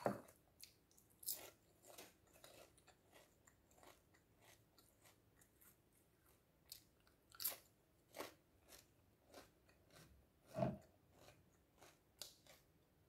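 Pumpkin seed seaweed crisps being bitten and chewed: a quiet, irregular string of short crisp crunches, with a few louder crunches in the second half.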